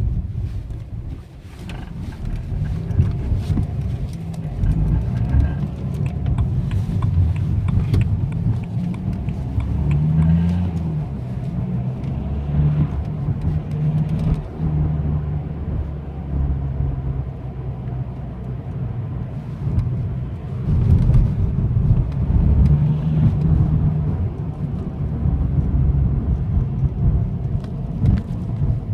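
BMW 123d's twin-turbo four-cylinder diesel engine running as the car drives, its low note rising and falling with throttle. Somewhere in it is a strange noise under acceleration and on backing off that the owner cannot explain.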